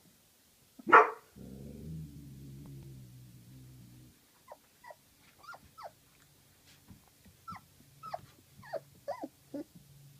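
Three-week-old puppies: a loud short cry about a second in, then a low rumbling growl for about three seconds, then a run of short, high, falling whimpers and squeaks.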